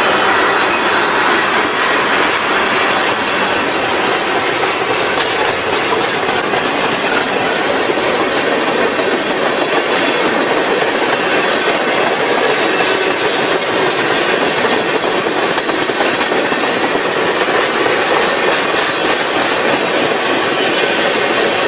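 Freight train cars rolling past at close range: a steady rumble and clatter of steel wheels on the rails.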